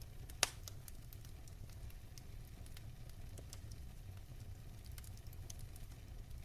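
Wood fire crackling in a fireplace: a low steady rumble under scattered small crackles, with one loud sharp pop about half a second in.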